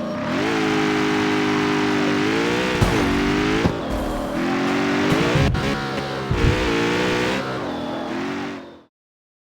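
Jaguar F-Type's supercharged V8 accelerating through the gears, its pitch climbing and dropping at each shift, with sharp exhaust cracks and pops at the shifts. The sound cuts off suddenly near the end.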